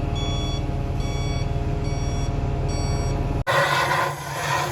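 A heavy vehicle's engine running steadily while its reversing alarm beeps a little faster than once a second. About three and a half seconds in the sound cuts abruptly to loud hissing noise over a lower hum.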